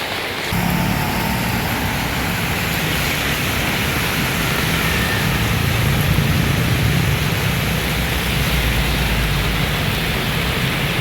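Heavy rain falling steadily, with strong wind buffeting the microphone as a loud low rumble from about half a second in.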